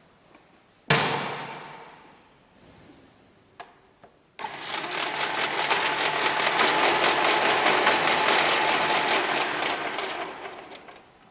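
A sharp bang that rings away, a couple of small clicks, then a machine starts with a fast, dense rattle and runs for about six seconds before fading out near the end.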